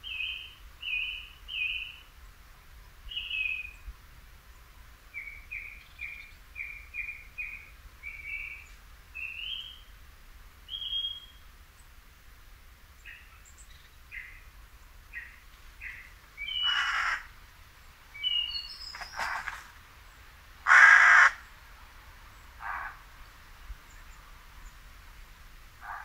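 Song thrush singing short phrases, each repeated two or three times. Later, several harsh caws of a crow-like bird break in, one much louder than the rest.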